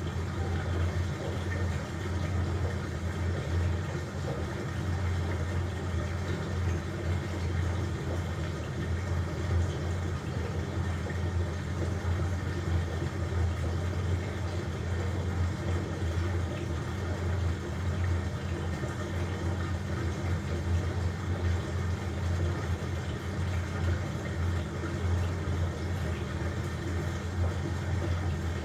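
LG washing machine running through its cycle with blankets inside: a steady low hum with a constant wash of churning noise above it.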